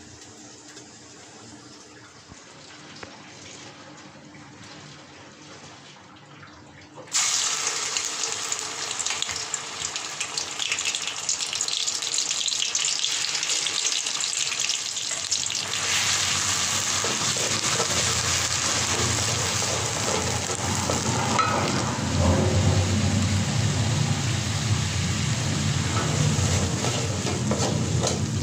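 Blended red paste frying in hot oil in a wok: a loud sizzle that starts suddenly about seven seconds in. From about halfway it is joined by a wooden spatula stirring and scraping the paste around the pan.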